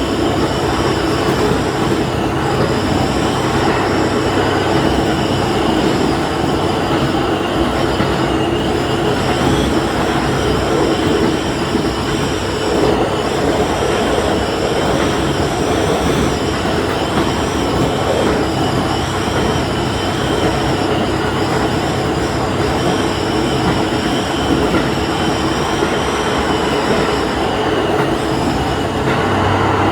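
Diesel railcar running along the line, heard from just behind the driver's cab: a steady engine drone with several held tones over the noise of wheels on the rails.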